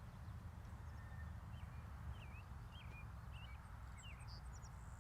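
Small birds chirping, a string of short quick up-and-down calls through the middle seconds, over a faint low rumble of wind on the microphone.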